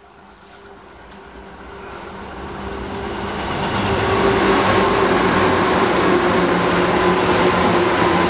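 Tobu Skytree Line electric commuter train passing through the station without stopping. The rumble of its wheels on the rails grows over the first few seconds, then stays loud and steady as the cars go by, with a steady whine under it.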